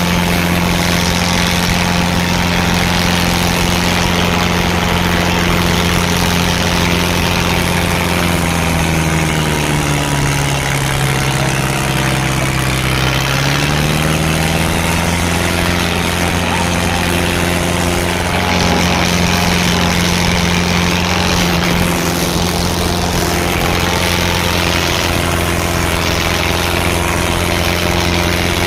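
Diesel tractor engine running hard while pulling a load in a tractor pulling contest. About nine seconds in, the engine speed sags under the load, then picks back up a few seconds later and runs steadily again.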